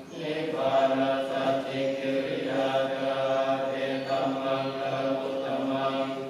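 Buddhist chant: several low voices chanting together in unison on long, held notes.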